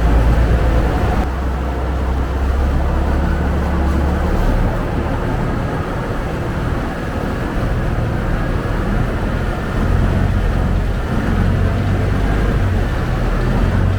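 Public passenger boat's engine running with a steady low drone, over continuous water and wind noise.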